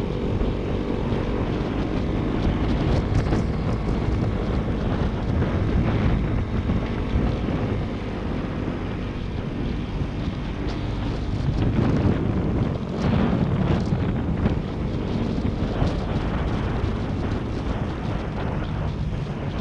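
Motorcycle engine running steadily under way, with wind rushing over the helmet-mounted action camera's microphone.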